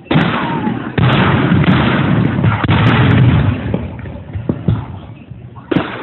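Aerial fireworks going off: a sudden bang at the start and another about a second in, then a couple of seconds of dense booming and crackle that fades. Another bang comes near the end.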